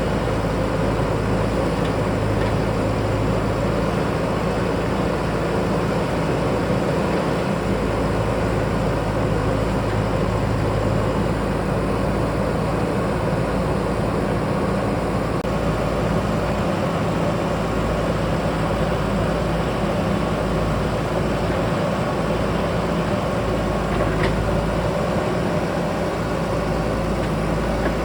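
JCB backhoe loader's diesel engine running steadily as the machine works, a low engine hum.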